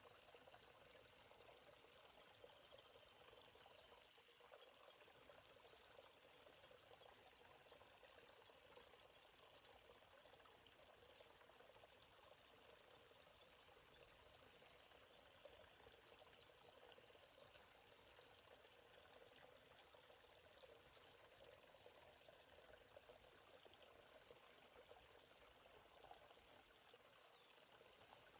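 Steady, high-pitched chorus of insects with a faint babbling stream beneath it.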